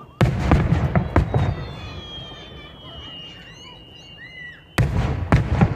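Aerial fireworks going off in two volleys, each a quick run of sharp bangs and crackles: one just after the start, fading over a second or so, and another near the end.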